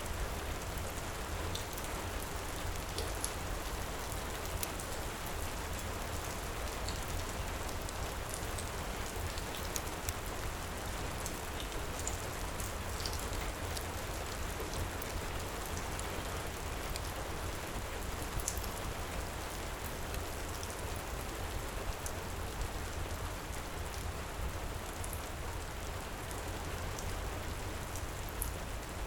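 Heavy rain falling steadily over a low rumble, with scattered faint sharp crackles of a wood fire burning in a fireplace.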